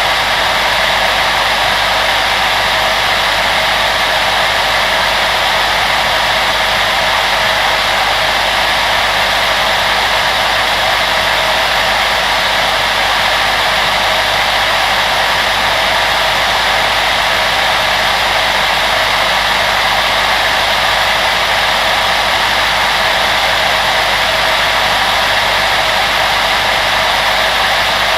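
Electric blower motor and fan running continuously, a steady, even rush of air with a faint fan hum and no change in pitch or level.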